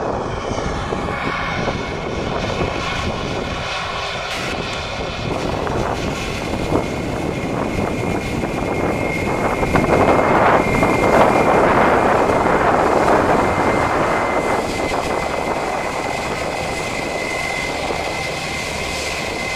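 Airliner engines running, a steady rushing noise with a thin high whine, growing louder about halfway through and then easing off.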